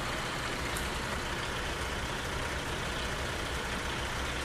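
A large vehicle's engine idling steadily, a constant low rumble under a wash of outdoor noise.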